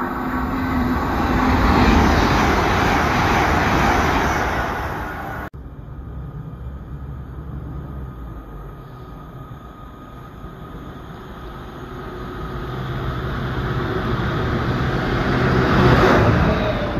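Colas Rail Freight diesel locomotive approaching with a steady engine drone that grows louder, passing close near the end with its wagons behind. Before it, a loud rushing noise swells and cuts off abruptly about five seconds in.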